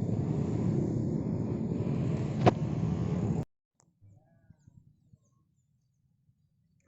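Steady low rumble of a vehicle on the move, with a single sharp click about two and a half seconds in; it cuts off abruptly after about three and a half seconds to near silence.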